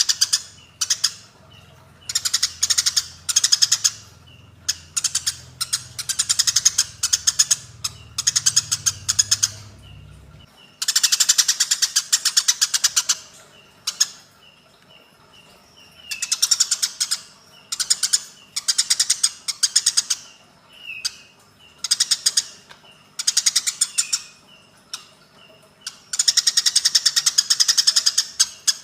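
Eurasian tree sparrows fighting, giving runs of fast, harsh chattering notes, each run one to three seconds long, with short single chirps in between.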